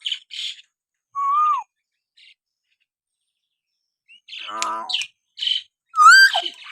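Hill myna calling in short separate phrases: quick chirps, a clear whistle that dips down about a second in, then after a pause a harsh, rasping call with more chirps and a sharply rising whistle near the end.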